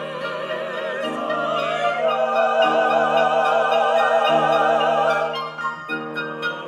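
Contemporary chamber music: several operatic voices hold long notes with vibrato over sustained lower instrumental notes. The voices swell louder through the middle and drop back about five and a half seconds in.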